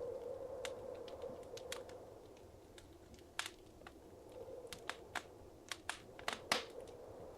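Wood fire crackling in a fireplace, with irregular sharp pops over a soft rushing hiss of flame that swells near the start and again after the end.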